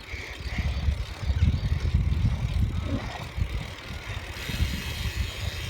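Wind buffeting the microphone in uneven gusts as a bicycle rolls downhill. A steady hiss joins in about four seconds in.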